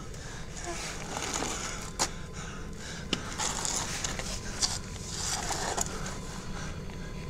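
Scraping and brushing against a rough stone wall, in irregular bursts with a few sharp knocks, over a steady low rumble.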